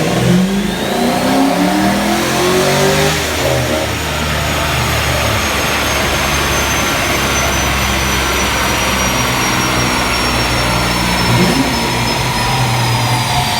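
Mustang Cobra's V8 revving up under a wide-open-throttle pull on a chassis dyno, its pitch rising over the first three seconds or so. It then settles to a steady lower note while a high whine slowly falls in pitch as the dyno rollers spin down.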